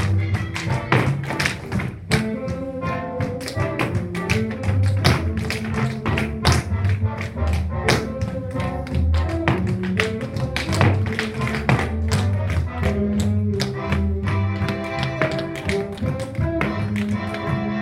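Recorded music with a steady bass line and chords, overlaid by many quick, sharp, irregular taps, as of tap shoes striking a floor.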